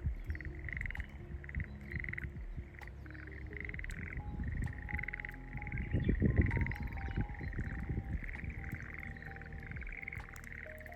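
Schlegel's green tree frogs calling, a chorus of short pulsed trills repeating about twice a second. A low rumbling noise swells up a little past halfway and fades again.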